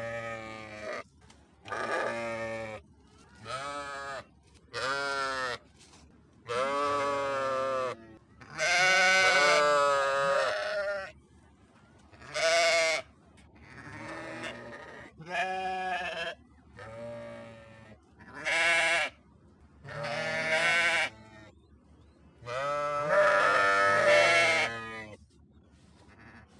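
Sheep bleating over and over: about a dozen wavering baa calls, each one to two seconds long, separated by short pauses. The longest and loudest calls come about ten seconds in and near the end.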